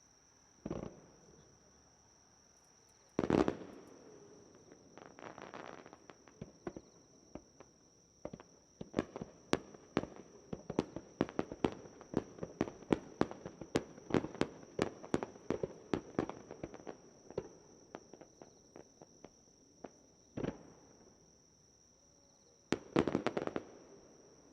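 Fireworks going off: a few single bangs, then about ten seconds of rapid crackling pops, several a second, and a last cluster of bangs near the end.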